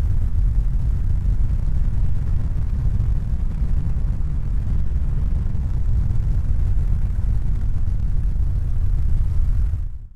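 Steady low rumbling noise with no distinct events, fading out near the end.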